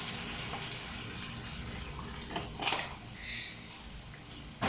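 Hot pan of beef and broccoli hissing and steaming after water has gone in, the hiss fading over the first two seconds. A few light knocks follow around the middle and near the end.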